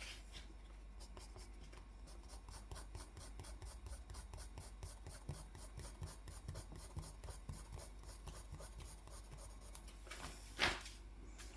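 A drawing tool scratching and rubbing on paper in short, irregular strokes while sketching. About ten and a half seconds in there is one louder sharp tap.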